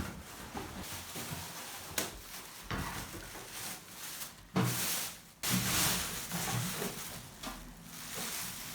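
Packaging being pulled off a new microwave oven: irregular rustling and scraping with a sharp knock about two seconds in, loudest about halfway through.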